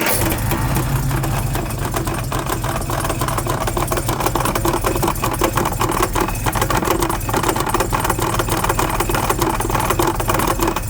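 Jaguar XK150's straight-six running at idle with a fast, steady rattling clatter over it: the bad noise the owner blames on the Borg-Warner DG 250 automatic transmission, which had been judged good to install.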